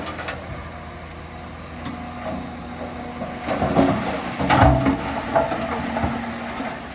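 Heavy diesel earthmoving machinery running steadily, with a cluster of loud metallic clanks and knocks from about halfway through.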